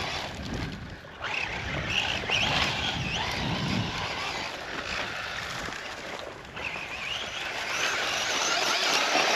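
Brushless electric motor of a Losi RC truck whining up and down with the throttle as it runs across loose sand, over a steady rushing noise of tyres and sand.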